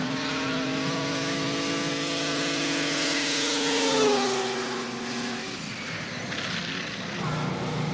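Racing snowmobile's two-stroke engine running at full throttle down a grass drag strip, a steady high note that is loudest about four seconds in, then drops in pitch and fades as the sled goes past.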